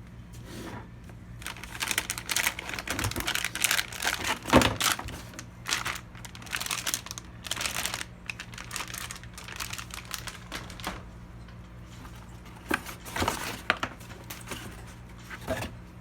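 Plastic packaging crinkling and rustling as it is handled, in irregular bursts of crackles: a long stretch early on, then shorter bursts near the end. A steady low electrical hum sits underneath.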